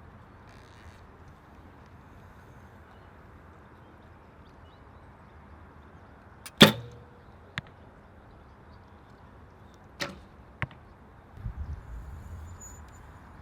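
Recurve bow with a Hoyt Epic riser being shot: one loud sharp crack of the string release, then about a second later a faint knock of the arrow striking the target. Two more short clicks follow, then a brief low rumble of wind on the microphone near the end.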